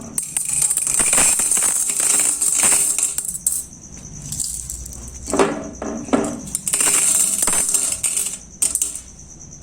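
Aquarium stones poured into a glass fish bowl, clattering and clinking against the glass and each other. The pouring comes in spells, busiest in the first three seconds and again from about seven seconds in.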